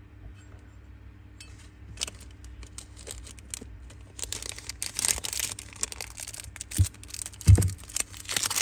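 Used Zippo lighter cases and their wrapping being handled: crinkling and rustling with small clicks, setting in about four seconds in, and two soft low thumps near the end.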